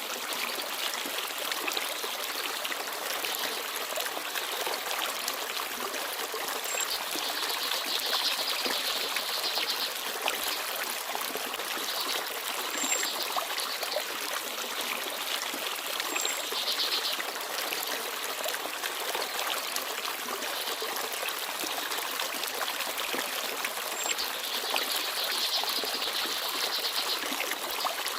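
Forest stream babbling steadily over stones, with brief high chirps from small birds every few seconds.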